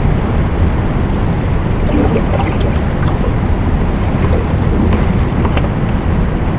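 Steady, loud rush of water, heaviest in the low end, with a few faint splashes about two seconds in and again near the end.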